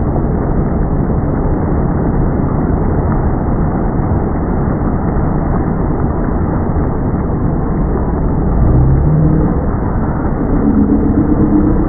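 Steady low rumble of a motorboat running on the water, with a short rising tone about nine seconds in and a few brief pitched sounds near the end.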